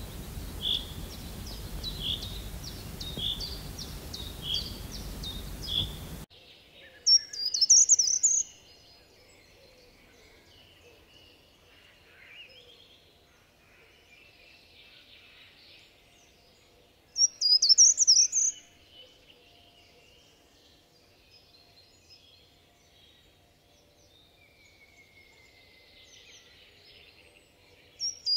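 Birds singing: a run of evenly repeated high chirps cuts off sharply about six seconds in. Then come loud, high trilled song phrases twice, about ten seconds apart, with faint calls between.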